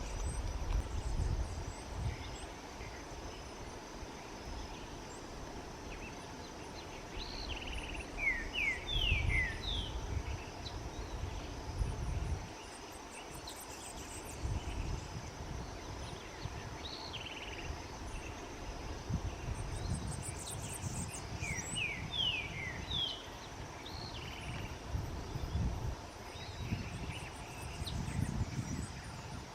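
Ochre-faced tody-flycatcher calling: two quick runs of short, falling notes with a few single notes between, over a steady high insect hum. Low wind rumble on the microphone comes and goes.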